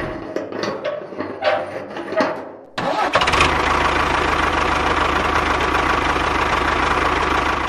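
An engine starting: about three seconds of irregular clattering as it is cranked, then it catches suddenly and runs steadily, stopping abruptly near the end.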